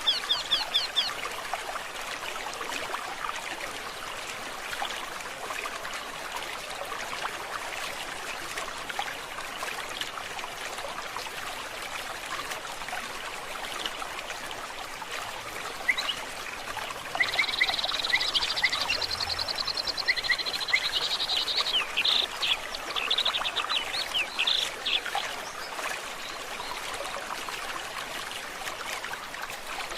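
Stream of water trickling steadily, with birds singing over it: a rapid repeated call that stops in the first second, and a few seconds past the middle a bird's run of quick trilled notes.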